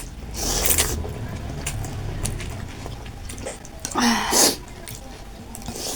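Close-miked eating sounds of chicken thukpa noodle soup: chewing with small wet clicks, and a louder noisy slurp-like burst about four seconds in.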